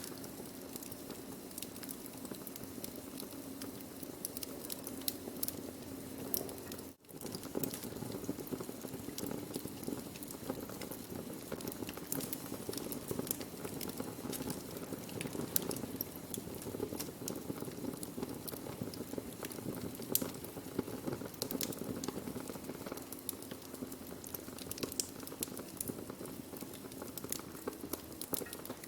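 Wood fire burning, crackling with frequent sharp pops and snaps over a steady low rush of flame. The sound cuts out for a split second about seven seconds in.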